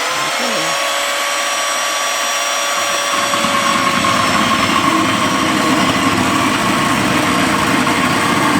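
Chainsaw running at high speed with a steady whine; about three seconds in a rougher, rasping layer joins it as the chain bites into the wood.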